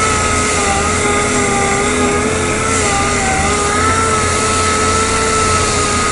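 DA sander running steadily on the bumper repair, a whine that drifts slightly up and down in pitch over a constant hiss.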